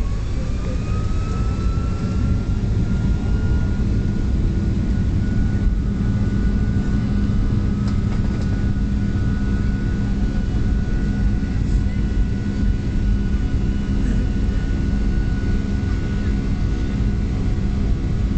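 Boeing 757 jet engines heard from inside the cabin, spooling up: a whine rises over the first few seconds and then holds steady over a loud, even rumble, typical of thrust being set for the take-off roll.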